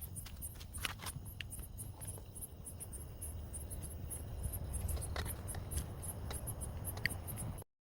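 Crickets chirping in a steady run of high, evenly spaced pulses, over a low rumble with a few brief clicks. All sound cuts off suddenly near the end.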